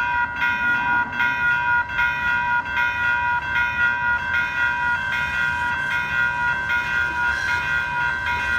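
A railway warning bell rings in quick, even, repeated strokes, about two to three a second, over the low rumble of an arriving VTA light rail train.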